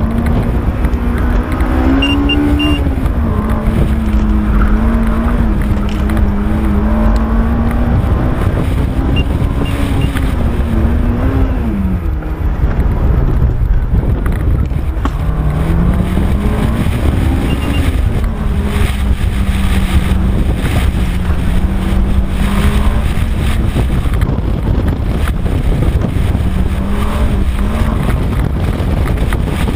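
Honda S2000's high-revving four-cylinder engine pulling hard, its pitch rising and falling with throttle and braking, over heavy road and wind noise. The revs drop about twelve seconds in, then climb again a few seconds later.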